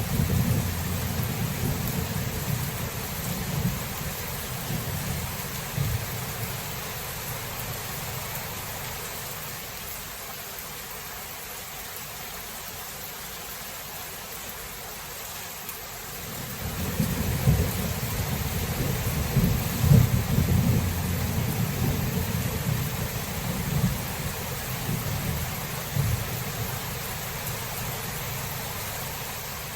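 Steady rain with rolling thunder: a long low rumble fades away over the first several seconds, and a second long roll of thunder begins about halfway through and slowly dies down near the end.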